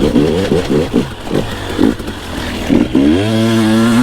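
Two-stroke enduro dirt bike engine under riding, the throttle blipped in short bursts, then revving up about three seconds in and held high.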